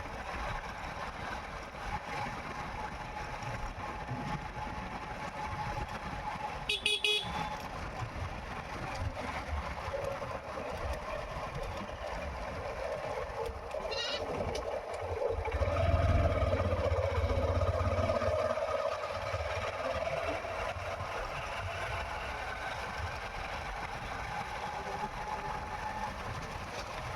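Motorcycle running along a road, its engine and road noise steady, with a short horn-like beep about seven seconds in. A little past halfway a deeper rumble swells louder for a few seconds, then eases off.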